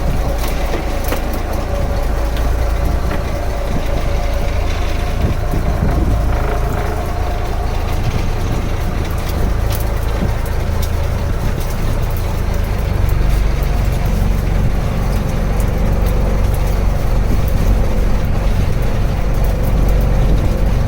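Fishing boat's engine running steadily, mostly low-pitched, with scattered light ticks over it. It grows slightly louder about two-thirds of the way through.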